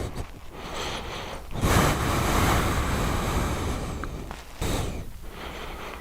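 Wind buffeting the microphone in gusts, a rushing noise with no engine note, strongest from about two seconds in.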